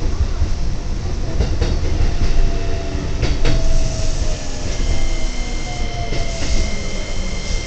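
Keikyu 1500-series electric train running, heard from inside its rear cab: a steady rumble of wheels on rail, clacking over rail joints and points, with light wheel squeal. About two-thirds of the way through, a high steady tone joins in and holds.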